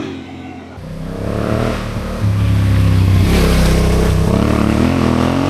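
Yamaha Ténéré 700 motorcycle's parallel-twin engine running and revving, its note rising and loudening about two seconds in.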